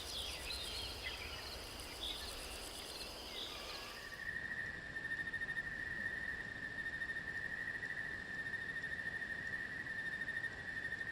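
Rainforest insects calling. A steady high-pitched insect drone with scattered bird chirps gives way, about four seconds in, to a single continuous lower-pitched insect trill.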